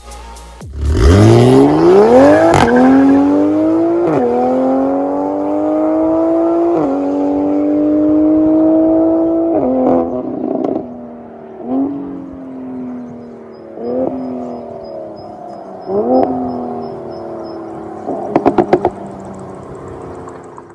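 Toyota GR Supra's B58 turbocharged straight-six through an MS-R valved cat-back exhaust, accelerating hard: the pitch climbs, drops at each upshift, and climbs again, about four times. Then come three short throttle blips, and near the end a quick string of about six loud pops on the overrun.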